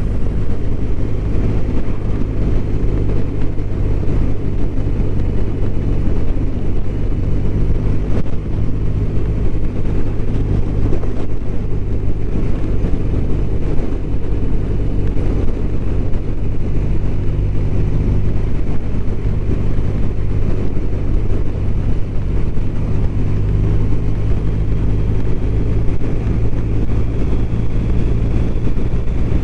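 BMW R1200RT's flat-twin engine running at a steady cruising speed, with road noise.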